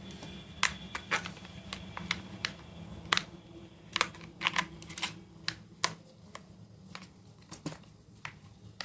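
Irregular sharp plastic clicks and taps of batteries being fitted into a toy car's remote control and its battery compartment being handled.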